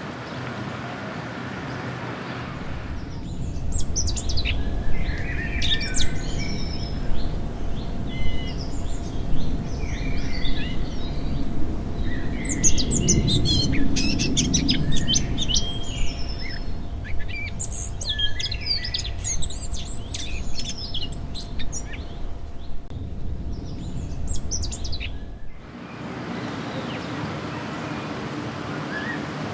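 Small birds chirping and singing, many short varied calls overlapping, starting a few seconds in and cutting off suddenly near the end. A steady background noise is heard before and after the birdsong.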